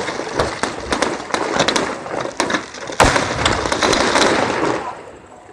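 Fireworks display: a rapid crackle of many small bursts, then a louder bang about three seconds in, followed by dense crackling that fades near the end.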